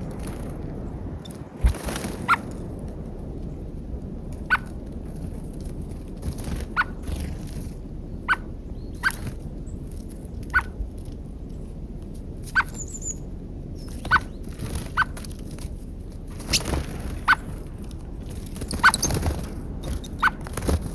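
Birds pecking at peanuts at a feeder: sharp, irregular taps, about one a second, over a steady low background hiss, with one brief high chirp about halfway through.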